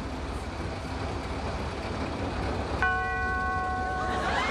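Classic Mini's engine idling with a low, pulsing rumble. About three seconds in, a steady beep of one even pitch starts abruptly and holds for just over a second.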